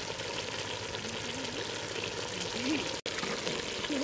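Chicken pieces frying in a pot over a fire, a steady sizzle. The sound cuts out for an instant about three seconds in.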